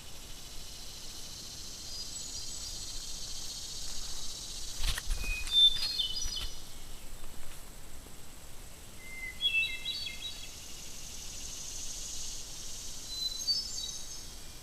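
An unidentified songbird singing three phrases of quick short notes that step up in pitch, about five, ten and thirteen seconds in, over a steady high hiss. A few knocks come about five seconds in.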